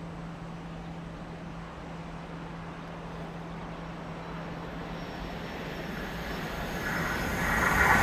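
A train approaching: a low, steady hum that grows gradually louder over the last couple of seconds.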